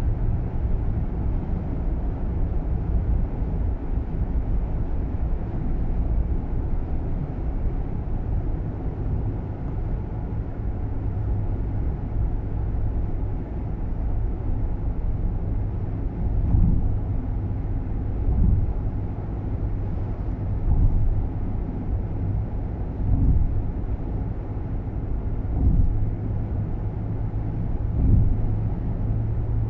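Nissan Roox kei car driving, heard from inside the cabin: a steady low road-and-engine rumble, with a few short soft thumps in the second half.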